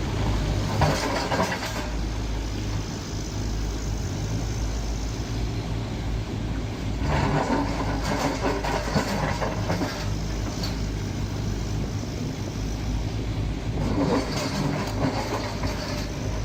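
Excavator's diesel engine running steadily, with three louder stretches of machine noise that each last one to three seconds, near the start, in the middle and near the end.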